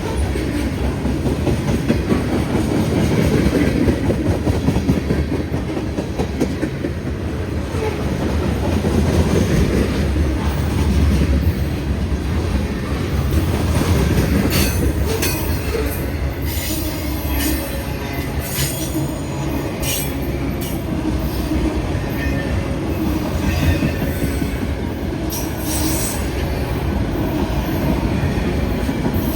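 Train passing close by: a steady low rumble of wheels on the rails, with short high wheel squeals and clicks from about halfway through.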